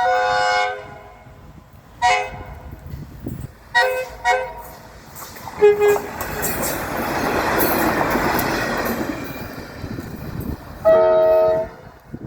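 Frankston Doodlebug railmotor giving a horn salute: a blast on its multi-tone horn, then several short toots, then the rushing noise of the railcar passing close, and one more horn blast near the end.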